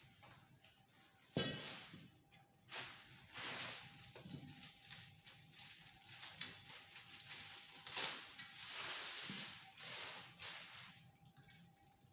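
Faint rustling and handling noises with a few sharp knocks, over a faint steady hum.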